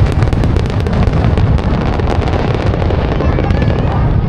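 Aerial fireworks going off in quick succession: a constant low rumble of bursts overlaid with dense crackling pops.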